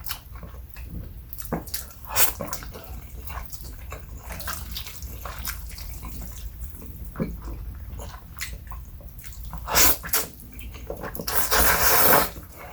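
Close-miked eating of stir-fried instant noodles: wet chewing and mouth smacks with many small clicks, and a louder slurp lasting about a second near the end.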